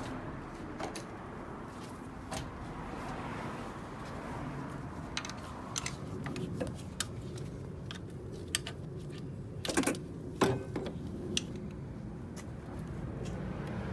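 Scattered clicks and light rattles of hands working loose plastic wiring-harness connectors and clips in a car's engine bay, over a steady low hum; the loudest knocks come about ten seconds in.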